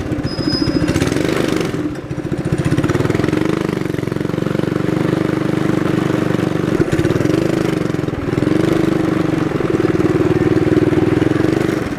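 Minibike's small engine running as the bike rides off, its pitch rising and falling with the throttle, with brief drops in engine speed about two and eight seconds in.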